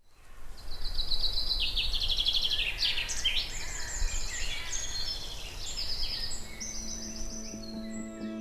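Woodland birdsong: several songbirds singing in overlapping fast trills and short phrases, over a low rumble. Soft music fades in near the end.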